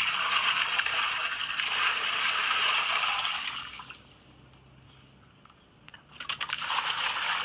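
Water being poured out in a splashing rush, dying away after about three and a half seconds, with a second pour starting near the end.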